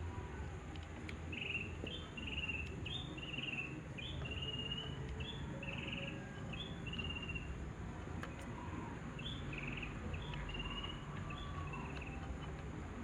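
Small bird chirping repeatedly in short two-note calls, over a low steady rumble.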